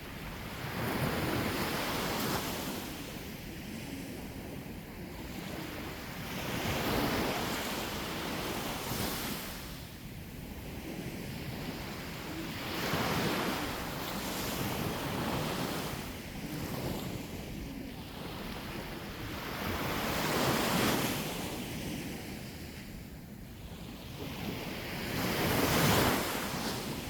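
Sea waves breaking and washing on the shore, swelling about every six seconds, with wind on the microphone.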